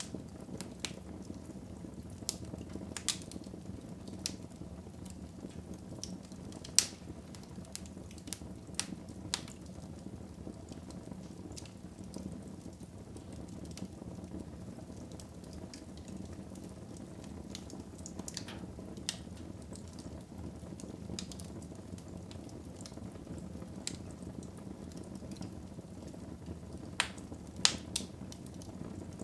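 Wood fire burning in a fireplace: a steady low rush of flames with scattered sharp crackles and pops, the loudest about a quarter of the way in and a pair near the end.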